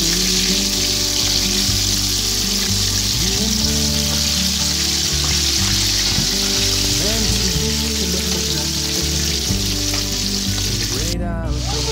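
Flour-coated chicken pieces deep-frying in hot ghee with a steady, vigorous sizzle, while a slotted spoon turns them in the pot. The flame is set too high. The sound cuts out for a moment near the end.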